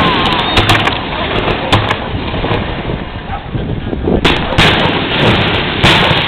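Fireworks exploding overhead: a series of sharp booms and bangs over a continuous rumble, with the strongest reports about four and a half seconds and six seconds in.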